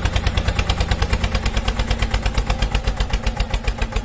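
Small engine of a homemade mini tractor running steadily, a rapid even chugging of about seven beats a second.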